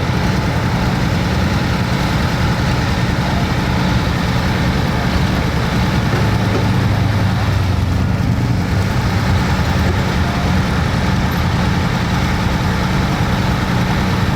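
Diesel engine of a hot farm pulling tractor running steadily with a deep, even drone.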